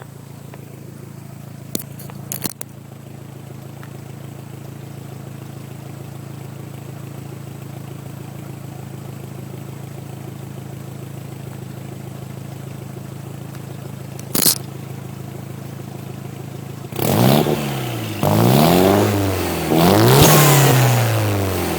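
Toyota MR2 Turbo's engine idling through a Magnaflow exhaust with a steady drone, a few sharp clicks over it. About seventeen seconds in it is revved three times, the pitch rising and falling with each blip. Picked up on an iPhone headset microphone.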